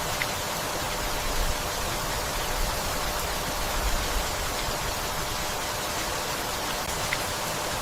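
Steady rain falling, an even hiss with a low uneven rumble underneath and a couple of faint single drip ticks.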